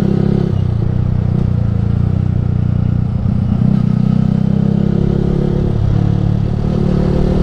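Yamaha R15 V3's single-cylinder engine running through a Ronin Musashi aftermarket exhaust while riding, steady, with the engine speed shifting a little around the middle.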